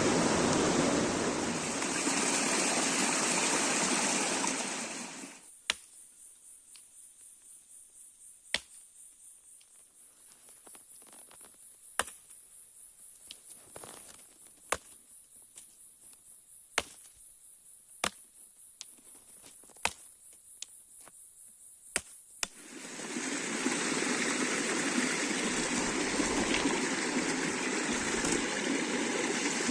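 A steady rushing noise, like flowing water, that drops away about five seconds in. In its place comes a steady, high, pulsing insect drone of crickets or cicadas, with a dozen or so sharp clicks, until the rushing noise returns near the end.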